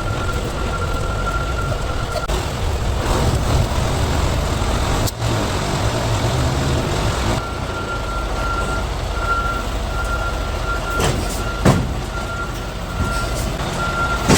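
Semi-truck diesel engine running with a steady low rumble while a reversing alarm beeps repeatedly, about one and a half beeps a second, through the second half. A brief sharp burst of air about three-quarters of the way through.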